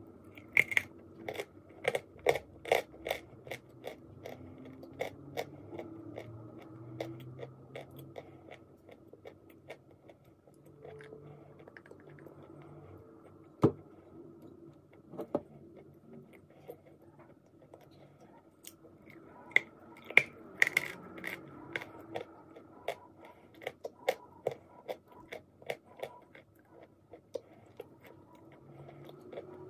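Close-miked biting and chewing of dry white clay chunks: sharp crunches in quick runs, heaviest in the first few seconds and again about two-thirds of the way through, with one lone loud crunch near the middle.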